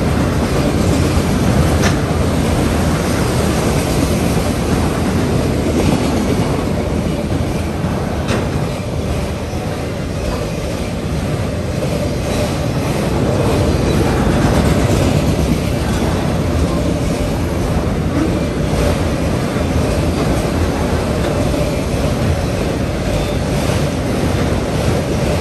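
CSX freight train of enclosed autorack cars rolling past: a steady rumble and rattle of the cars and their wheels on the rails, with a few sharp clicks.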